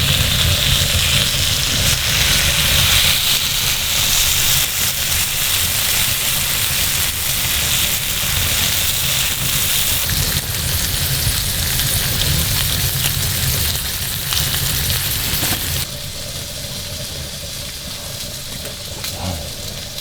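Beef short rib searing on high heat over a wood fire, a dense steady sizzle. It gets suddenly quieter about four seconds before the end.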